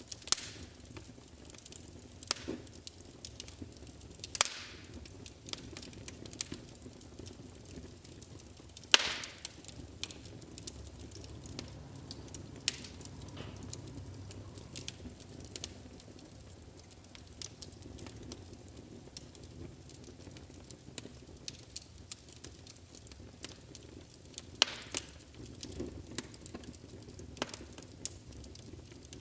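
Wood fire burning in a fireplace: a low steady rumble of flames with irregular crackles and sharp pops, a few much louder than the rest.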